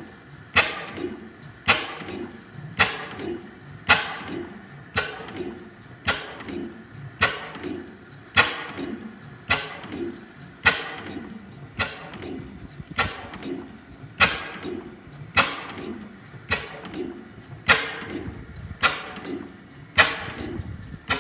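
5 HP Hornsby-Akroyd hot-bulb oil engine running slowly and steadily: a sharp knock a little more than once a second, with lighter clicks in between.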